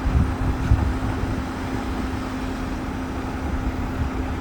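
Vehicle engine running: an uneven low rumble with a steady low hum.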